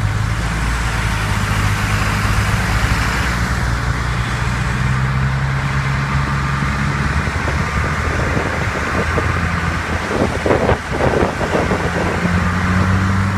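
Road vehicle heard from inside the cabin in slow traffic: a steady low engine hum with constant road and tyre noise, and a brief louder, uneven patch about ten seconds in.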